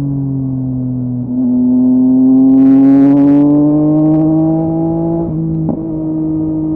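Yamaha MT-09's three-cylinder engine through a LeoVince LV Race exhaust, running under way with its note climbing slowly, with brief breaks in the note about a second in and again near five seconds.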